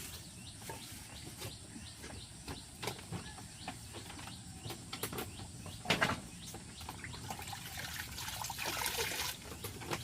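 Small birds chirping repeatedly, with scattered light knocks, a sharper knock about six seconds in, and a brief hissing rustle near the end.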